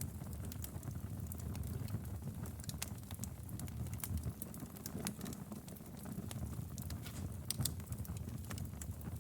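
Wood fire burning in a fireplace: many small crackles and pops over a steady low rumble of the flames, with a few louder pops late on.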